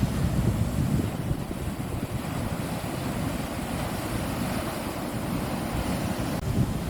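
Wind buffeting the microphone over the wash of sea waves on a beach: a gusty rumble.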